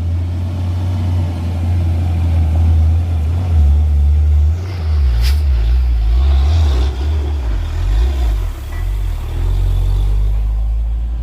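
A motor vehicle's engine running loudly at low revs, its note wavering and shifting from about halfway through, with one sharp click about five seconds in.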